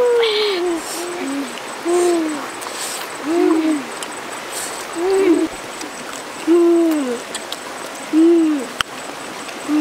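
A bird's low hooting call repeated about every second and a half, each hoot a short note that rises then falls. A single sharp click comes near the end.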